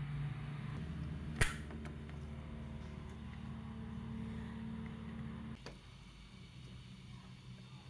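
Washing machine running with a low steady hum; a single sharp click about a second and a half in, and the hum drops to a quieter level about five and a half seconds in.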